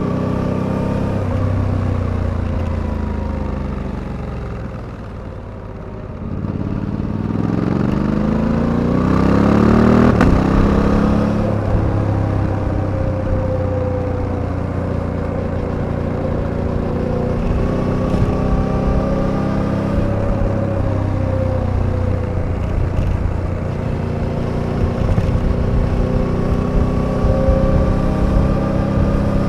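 Suzuki V-Strom 800DE's 776 cc parallel-twin engine under way. The revs fall and the sound fades about four to six seconds in as the throttle closes, then the pitch climbs steadily under acceleration to about ten seconds in, and the engine settles into a steady cruise.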